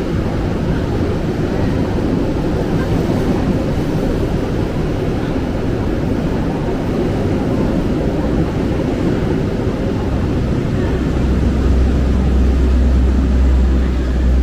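Steady running noise inside a former Tokyo Metro 6000-series electric commuter train under way, with a deep low rumble that grows stronger about eleven seconds in.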